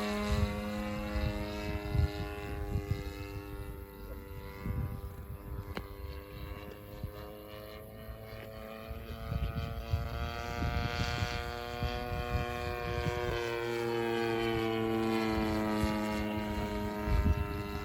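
DLE 30 single-cylinder two-stroke gasoline engine of a radio-controlled Ultimate model airplane in flight. The engine note falls in pitch and fades over the first half, then rises and grows louder again. Wind buffets the microphone throughout.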